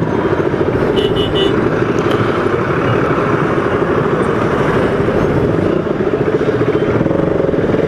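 Motorcycle engine running at low speed, a fast steady putter from its exhaust, with three quick high beeps about a second in.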